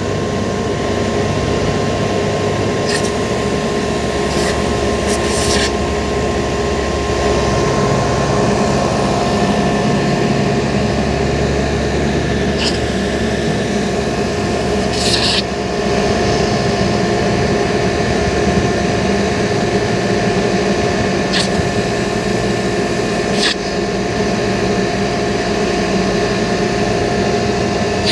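A steady mechanical drone, like an engine or compressor running, with about eight short hissing bursts scattered through it.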